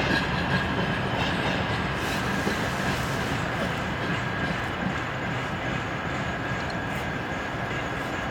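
Freight train of covered hopper wagons rolling past on the rails, a steady dense rumble and rattle slowly fading as the train moves away. A thin, steady high whine sits over the rumble.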